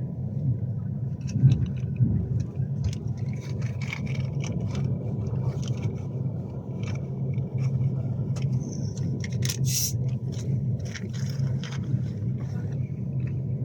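Cabin running noise of a Class 390 Pendolino electric train: a steady low rumble with a scattering of short clicks and rattles, the sharpest about ten seconds in.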